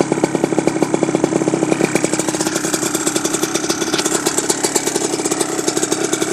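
Kawasaki dirt bike engine idling steadily after being kick-started, with a fast, even firing rhythm.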